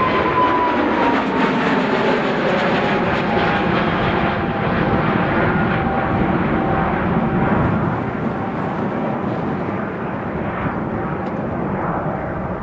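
Jet airliner passing close by: a loud engine rush with a whine that falls slowly in pitch as it goes past, easing off a little after about eight seconds.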